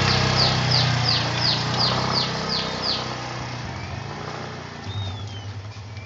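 Oriental magpie-robin giving a quick series of about eight short, high, downward-sweeping notes, about three a second, then a couple of single gliding whistles near the end. An engine runs low underneath and fades out about halfway through.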